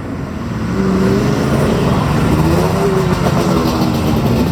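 M3 half-track's six-cylinder White gasoline engine running as the vehicle pulls away, its revs rising and falling over a low, pulsing rumble.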